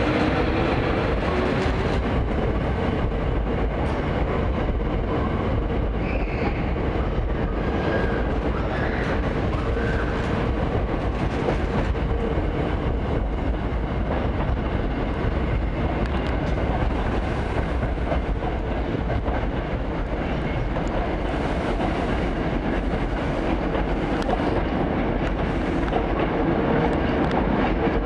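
Hankyu 1000 series electric train pulling out of the platform, a steady rumble of running noise with wheels clattering over the rail joints as the cars pass.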